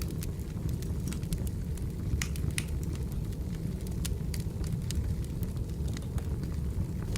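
Wood fire burning, with irregular sharp crackles and pops several times a second over a steady low rumble of the flames.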